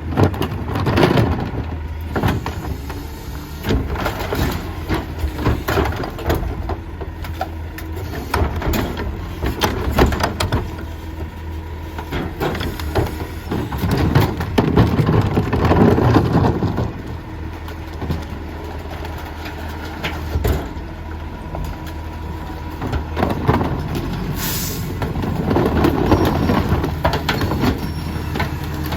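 Mack MRU rear-loader garbage truck running, with its McNeilus rear-loader packing mechanism working and repeated clanks and knocks. A short air hiss comes about 24 seconds in.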